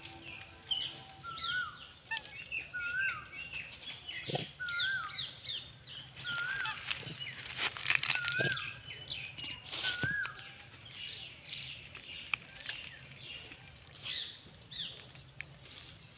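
Wild birds calling: one bird repeats a short whistle that rises and then falls, every couple of seconds, among quicker, higher chirps from others. A few brief rustling noises come near the middle.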